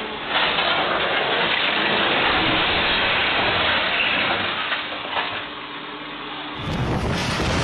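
Floodwater rushing, a steady even noise. Near the end it cuts to a deeper rumbling noise.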